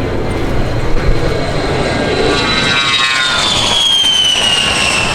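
A turbine-powered airplane passing by: a loud engine rumble with a high whine that slides steadily down in pitch from about halfway through as the aircraft goes past.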